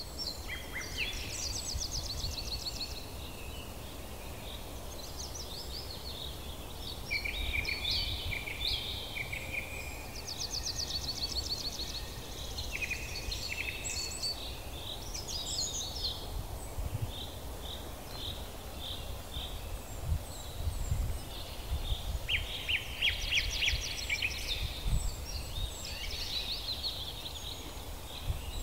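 Several small birds chirping and trilling, with fast repeated trills and short varied calls, over a steady low rumble.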